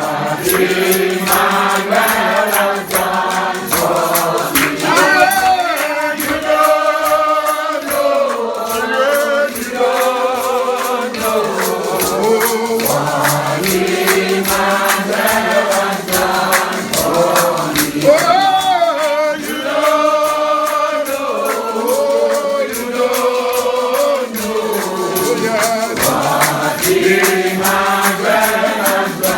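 A church congregation singing a gospel chorus together, with shaken hand percussion keeping a steady beat underneath.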